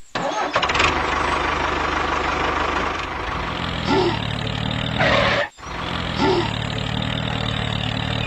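A small motor running steadily, broken by a sudden brief dropout about five and a half seconds in.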